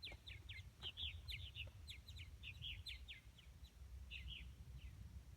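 Faint birdsong: a steady run of short, quick chirps, over a low background rumble.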